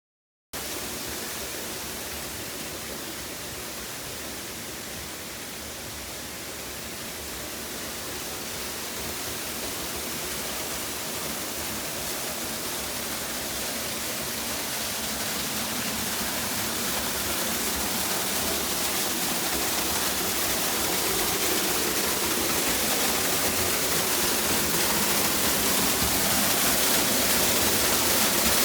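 Waterfall rushing, a steady roar of falling water that starts suddenly about half a second in and grows gradually louder.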